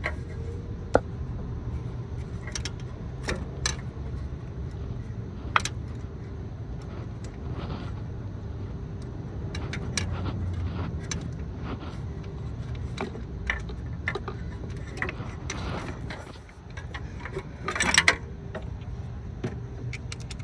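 Scattered metallic clicks and clinks of a socket and extension working a spark plug into the engine, over a steady low hum. A quick run of louder clinks comes near the end.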